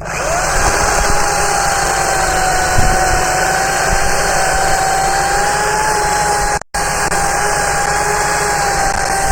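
Kubota B7100 subcompact tractor's three-cylinder diesel engine running steadily under a clear, steady whine. The sound cuts out for an instant about two-thirds of the way through.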